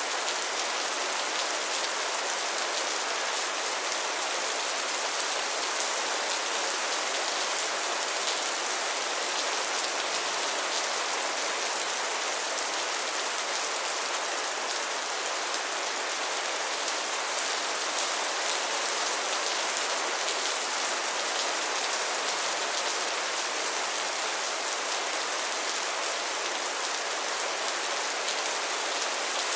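Steady rain falling, a constant even hiss of drops striking a surface.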